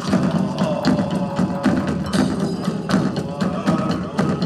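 Live band music with a steady beat of sharp percussive strikes over sustained pitched instruments.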